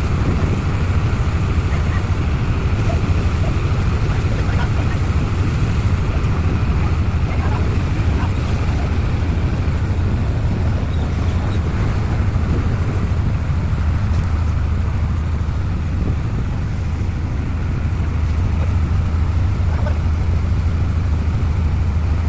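An engine running steadily, with a strong low hum.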